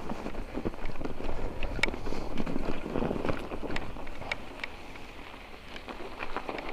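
Mountain bike riding over snow and mud: the tyres crunch and the bike rattles with many small irregular clicks, with wind on the microphone.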